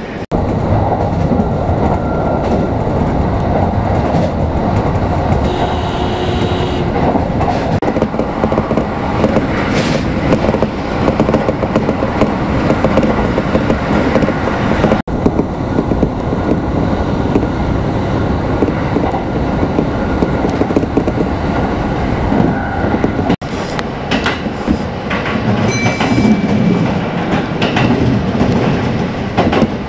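Kintetsu express train running at speed, heard from inside the car: a steady rumble of wheels on rail with some clickety-clack over the joints. The sound breaks off sharply for an instant twice, about halfway and about three-quarters through.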